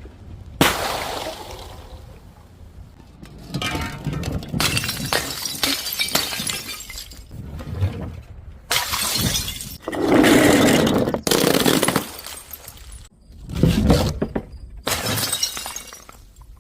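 Glass bottles shattering, one break after another in a series of about seven separate smashes, each a sudden crash followed by crunching and tinkling fragments.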